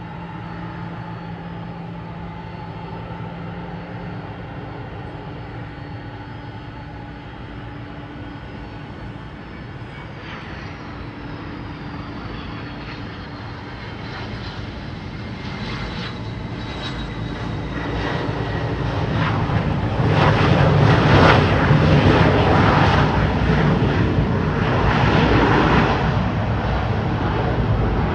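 Boeing 717's two rear-mounted Rolls-Royce BR715 turbofans. A steady engine hum with a high whine that falls in pitch about ten seconds in, then a jet rush that swells and is loudest about two-thirds of the way through as the airliner passes.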